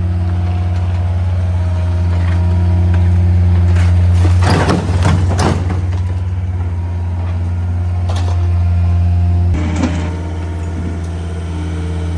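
A vehicle engine idling steadily, with a stretch of clattering noise about four to six seconds in and a change in the engine's note near the ten-second mark.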